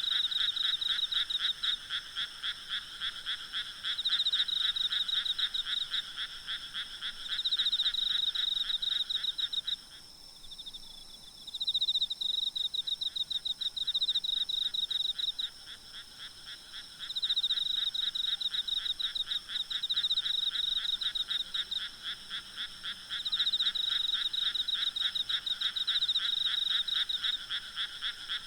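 Night chorus of frogs: dense, rapidly pulsed croaking calls overlapping without a break, with steady high insect trills underneath. About ten seconds in the croaking drops away for a second or two, then builds up again.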